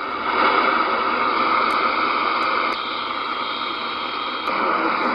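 Radio receiver static from the speaker of a Galaxy DX-86V ten-meter radio: a steady hiss of band noise with no station coming through, its level stepping up and down a few times.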